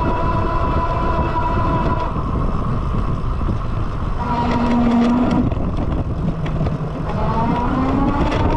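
Lectric XP 2.0 e-bike's hub motor whining under a low rumble of wind and road noise, the pitch steady, then rising about seven seconds in. This is the strange noise the owner is recording.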